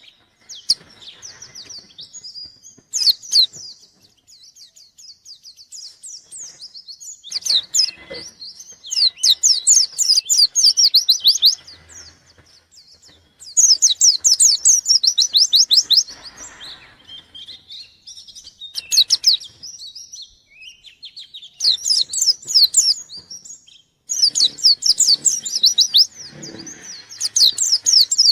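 A white-eye (pleci, Zosterops) singing energetically. It gives several bursts of rapid, high chirping trills, each a second to a few seconds long, with short pauses between them.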